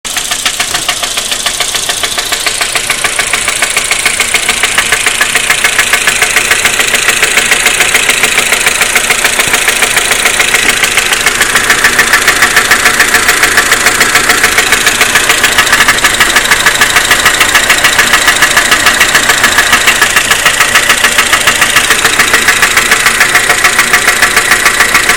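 Volkswagen Passat B5's 1.8T (AWT) turbocharged four-cylinder engine running with a steady, evenly repeating knock in time with the engine.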